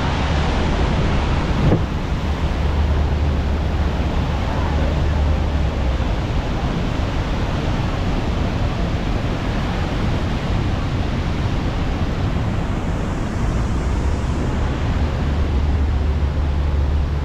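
Steady roar of rushing water at the Rhine Falls, with a constant low rumble beneath it and a short knock about two seconds in.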